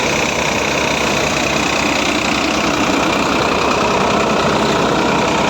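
Tractor backhoe loader's diesel engine running steadily with an even low throb.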